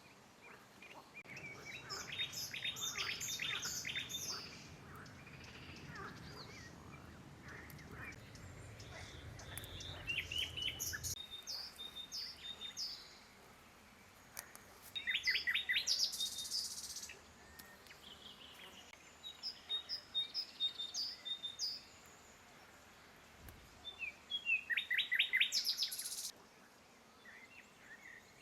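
Songbirds singing in bursts of rapid, high chirping phrases, with pauses of a few seconds between. A low rumble runs under the first part and cuts off about eleven seconds in.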